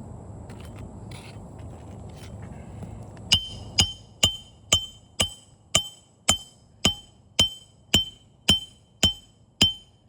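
Hammer striking roofing nails by hand: thirteen sharp, ringing metal strikes at an even pace of about two a second, starting about three seconds in.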